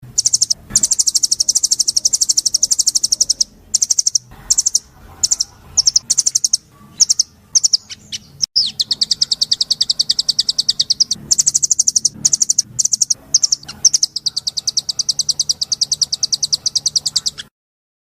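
Songbird singing long, very rapid high-pitched trills broken by short pauses, then cutting off suddenly near the end.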